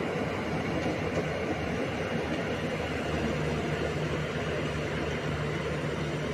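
Rice combine harvester running steadily as it harvests the paddy, with a steady low engine hum that grows stronger about halfway through.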